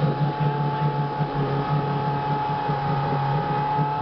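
Lada Niva 4x4's engine held at steady revs while the vehicle works in a muddy rut, with a steady high whine above the engine note.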